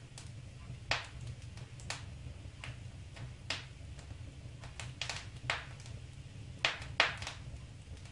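Wood fire crackling in a fireplace: irregular sharp pops and snaps, the two loudest close together about seven seconds in, over a low steady rumble.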